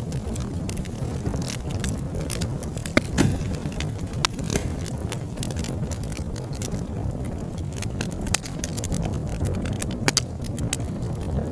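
Fire in a fireplace crackling: frequent sharp pops and snaps over a steady low rumble of the flames, with two louder pops close together about three seconds in.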